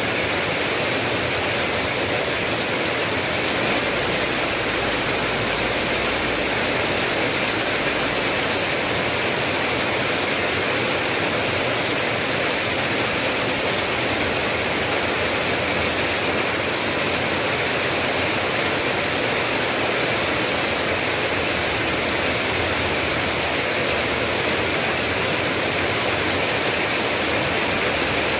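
Steady rain falling, a constant even hiss without breaks or distinct drops.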